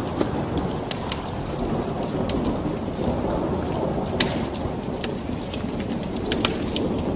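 Wood fire crackling in a fireplace: irregular sharp pops and snaps, a few louder ones, over a steady low rumbling noise.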